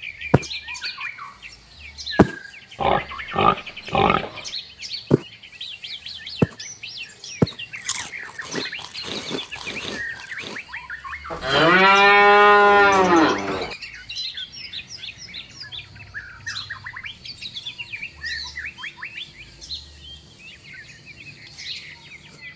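A cow moos once, a single long moo of about two and a half seconds near the middle, the loudest sound here. Before it come a series of sharp scissor snips, and small birds chirp throughout.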